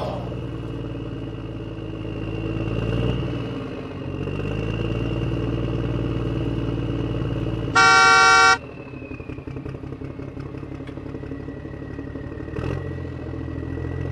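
Truck engine sound running steadily, with one loud horn honk lasting under a second about eight seconds in.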